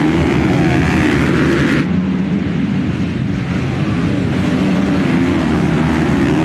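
Four-stroke 450cc motocross bike engines running hard, a steady loud engine drone; about two seconds in the sound turns abruptly duller as the hiss above it drops away.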